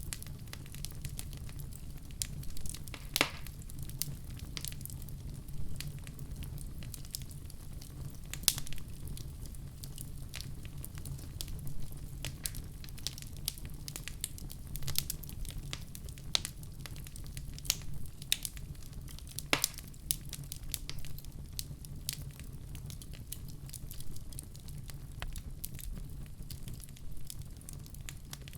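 Wood fire crackling in a fireplace: a steady low rumble of flames under frequent sharp pops and snaps, with a few louder snaps about three, eight and twenty seconds in.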